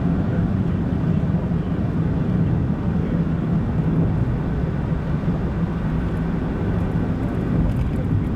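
Car driving at a steady pace, heard from inside the vehicle: a steady low engine hum with tyre and road noise.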